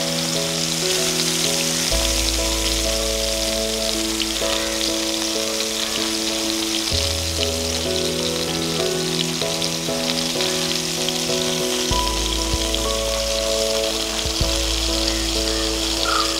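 Skewered prawns sizzling and crackling in hot coconut oil on a ridged grill pan, a steady hiss with fine pops. Background music with held chords that change every few seconds plays over it.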